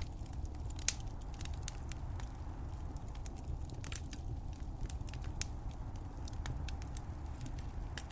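Wood fire crackling: frequent small, sharp pops and snaps over a steady low rumble of the flames, with one louder pop about a second in.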